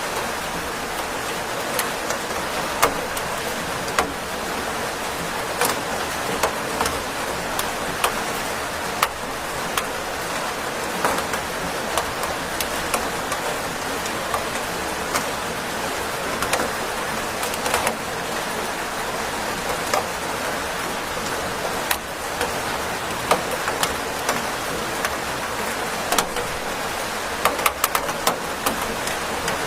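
Steady rain, a constant hiss with many irregular sharp drop ticks pattering on a hard surface, some louder near the end.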